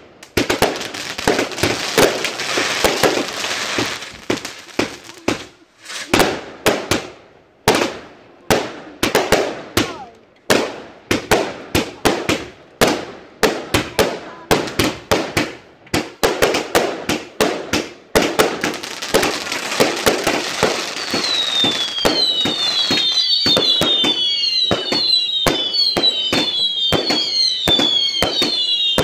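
A fireworks barrage firing a rapid run of sharp bangs and crackles. About two-thirds of the way through, a stream of falling whistles starts and overlaps with the bangs.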